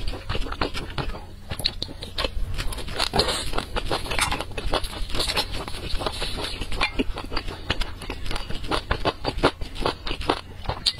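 Close-miked chewing of sauced skewered meat: a quick, uneven run of mouth clicks and smacks.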